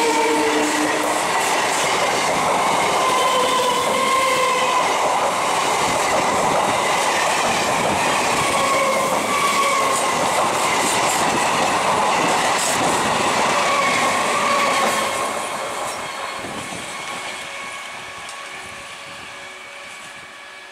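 Electric multiple-unit local train passing close by at speed, its wheels clattering over the rail joints, with wavering high-pitched tones above the rumble. The sound fades over the last five seconds or so.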